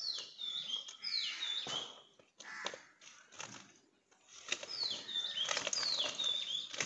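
A songbird singing short phrases of high whistled notes that step downward, repeated several times, with a few faint knocks or scuffs in between.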